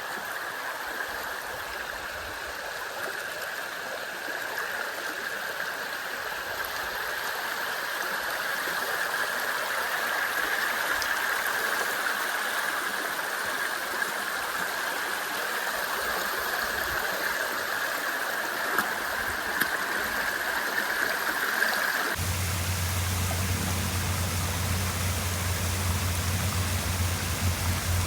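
Waterfall water rushing steadily. About 22 seconds in, it cuts abruptly to a different, deeper rush with a strong low rumble.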